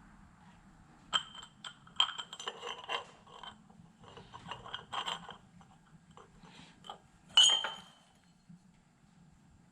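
Metal exhaust pipe bends clinking and knocking against each other as they are handled and test-fitted, in quick clusters of ringing clinks, with one louder ringing clink near the end.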